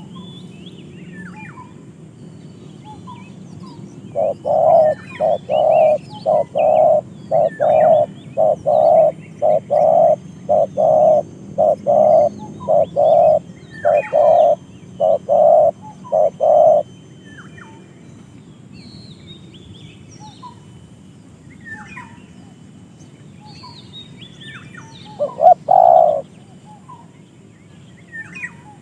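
A captive decoy bird calling a long, even run of about twenty low notes, a little under two a second, then two more notes near the end, with small wild birds chirping faintly around it.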